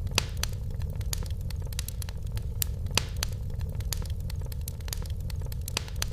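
Wood fire crackling in a fireplace: irregular sharp pops and snaps over a steady low rumble of the flames, with a louder pop about three seconds in.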